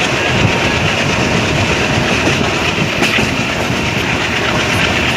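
Diesel-hauled express passenger train running at speed, heard from on board a coach: a steady rumble of wheels on the rails with some clickety-clack.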